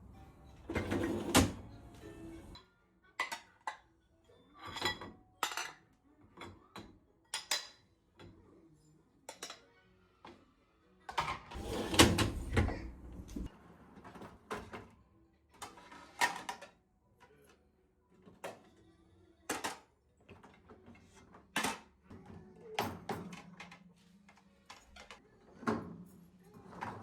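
A series of irregular knocks, clicks and clatters from household objects being handled, the loudest about a second in and around twelve seconds in, with music underneath.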